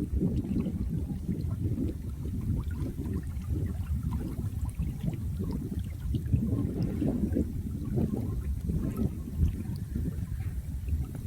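Running water: a steady, low rushing with small flickers of trickling on top.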